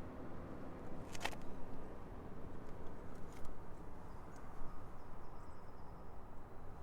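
Steady low background rumble with a few short, faint clicks, the clearest about a second in and again past three seconds.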